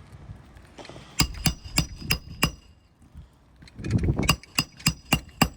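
Hammer driving roofing nails into a replacement shingle: two runs of about five quick strikes each, roughly three a second, each with a short metallic ring.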